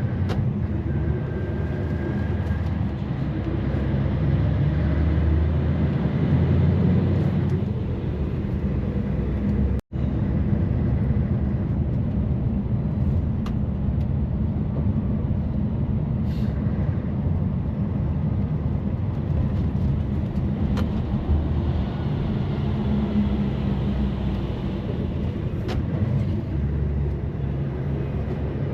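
Truck's diesel engine and road noise heard from inside the cab while driving along the highway, with a brief drop-out about ten seconds in.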